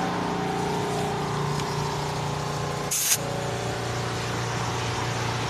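Tire air compressor running with a steady drone, and a short burst of hissing air about three seconds in, as air is let into or out of the tire valve; the drone's pitch drops slightly after the hiss.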